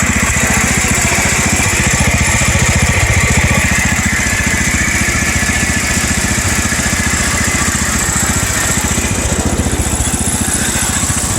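Small garden tractor engine running steadily at a fast idle, with an even, rapid firing pulse.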